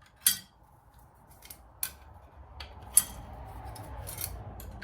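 Metal clutch plates from a Suzuki LTR 450 engine clinking as they are handled and set into a parts tray: several sharp clinks over a low handling rumble.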